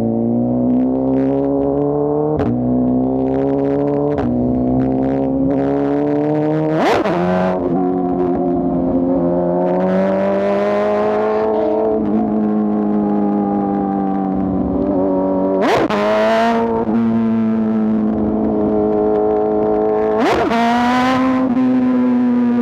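2024 BMW S1000RR's inline-four engine accelerating under load, its pitch climbing and then dropping sharply at each gear change, many times in a row, with a few short bursts of noise at the shifts.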